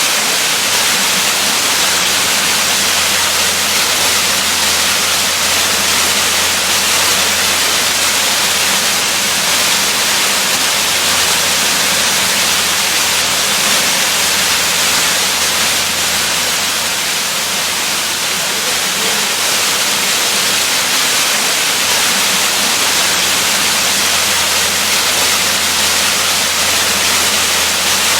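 Waterfall: a steady, dense rush of falling water, even and unchanging, heavy in the hiss.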